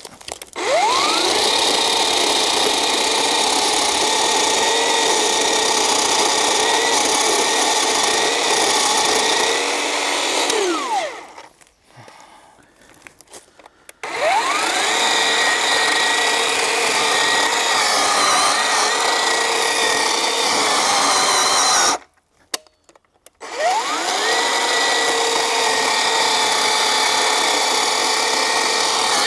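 Black & Decker GKC3630L20 36 V cordless electric chainsaw cutting into a log from underneath, in three runs. Each run starts with the motor whining up in pitch. The first winds down about ten seconds in, the second starts about fourteen seconds in and stops suddenly about twenty-two seconds in, and the third spins up again a second or so later.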